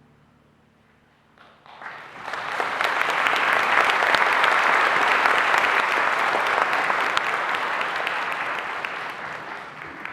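Audience applauding after the last koto note dies away. The clapping starts about a second and a half in, builds quickly to a full round, then slowly tapers off.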